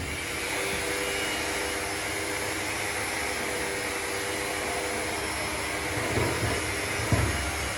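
Workshop machinery running with a steady whooshing whir and a faint hum, with a couple of knocks near the end.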